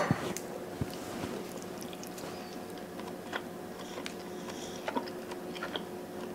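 Person chewing a bite of sliced roast beef, with scattered faint wet mouth clicks over a steady hum.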